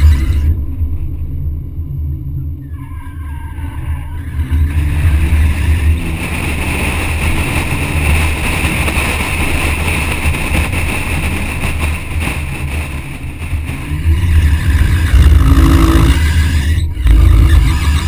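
BMW 130i's 3.0-litre inline-six revving up and falling back as the car drifts through the corners, with tyres squealing for several seconds in the middle, under heavy wind buffeting on the microphone.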